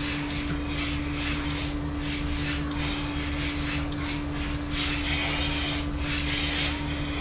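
Steady mechanical hum of barn machinery with a constant mid-pitched tone, overlaid by irregular short bursts of hiss.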